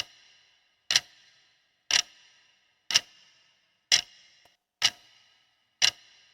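Countdown timer's clock-tick sound effect, one sharp tick about every second, each with a short ringing tail: seven ticks as the answer time runs down.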